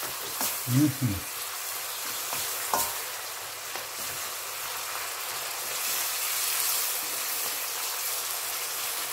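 Button mushrooms sizzling in a thickening soy-and-honey sauce in a wok, stirred with a spatula that clicks against the pan now and then. A brief low sound about a second in is the loudest moment.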